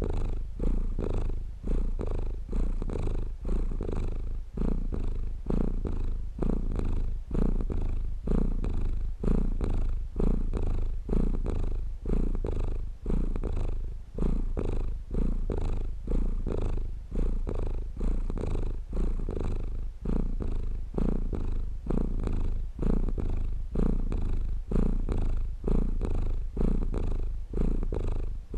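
Domestic cat purring steadily and close up, the purr swelling and easing in an even rhythm of roughly one breath a second.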